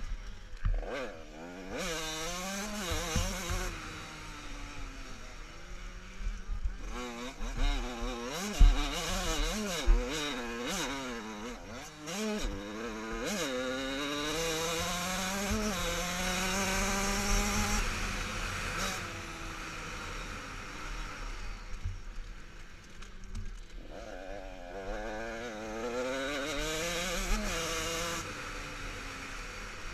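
Motocross bikes racing, their engines revving up and down through the gears, the pitch climbing and dropping many times and loudest around the middle.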